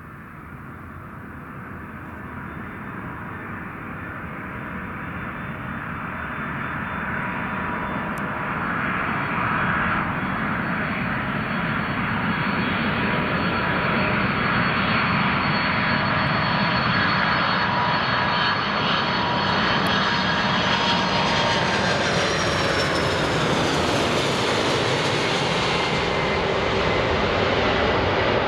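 Boeing 747's four jet engines on landing approach, growing louder as the jet nears, with a steady high fan whine. The whine drops in pitch as the aircraft passes, a little over two-thirds of the way through.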